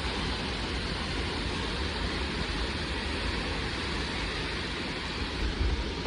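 Strong gusty wind rushing steadily, buffeting the microphone with a heavy low rumble.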